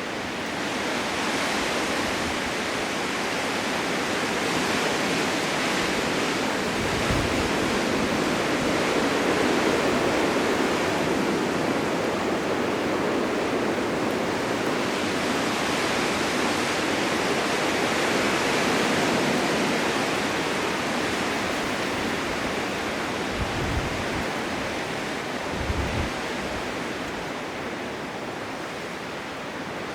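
Blizzard wind blowing steadily as an even rushing noise, swelling in gusts and easing again every several seconds. A few brief low thumps of wind buffeting the microphone come near the middle and toward the end.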